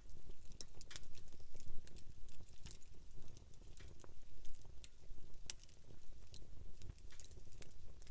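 Wood campfire crackling: many sharp, irregular pops and snaps over a low, steady rumble of burning.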